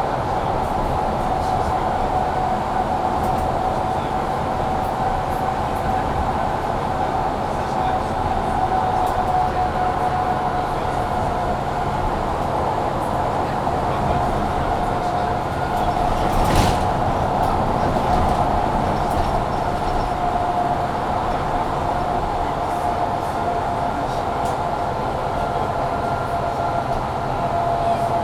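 Interior of a 2022 Mercedes-Benz Citaro C2 G articulated bus with Voith automatic gearbox under way: steady engine and drivetrain running with a constant whine, over the loud heater. A single sharp knock a little past halfway.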